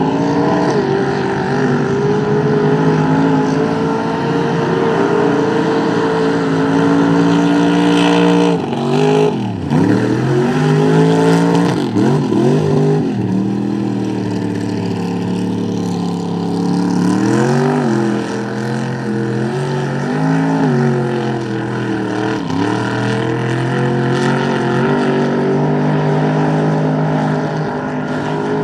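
Mud bog truck's engine running hard at high revs. About a third of the way in, the revs drop sharply and climb back twice. A few smaller dips and rises follow later as the throttle is worked.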